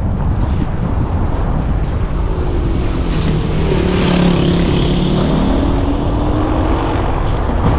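Motor vehicle engine running, heard as a steady tone from about three seconds in that rises slightly in pitch before fading near the end, over a constant low rumble of wind on the microphone.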